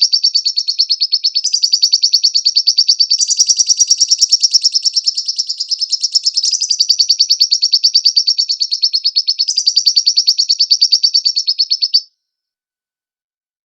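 Lovebird singing a long, rapid, unbroken trill of high, evenly repeated chirps, in recorded form for song training. It cuts off suddenly about twelve seconds in, leaving silence: the pause built into the training track.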